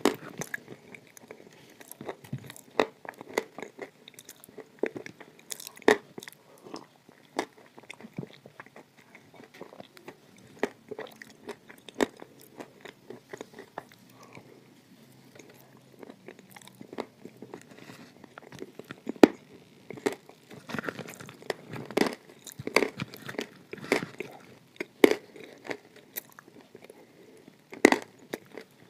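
Close-miked chewing of crumbly edible clay, with irregular sharp crunches and bites. There is a sparser stretch of softer chewing in the middle, and it grows busier again after that.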